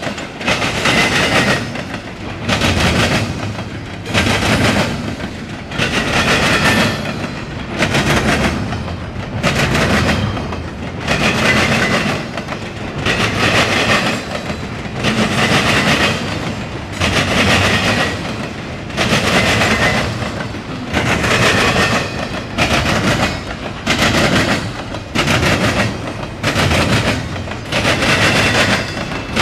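Cars of a CSX intermodal freight train rolling past, their wheels clacking over rail joints in a steady rhythm of loud clatters about every second and a half, with continuous rumble between them.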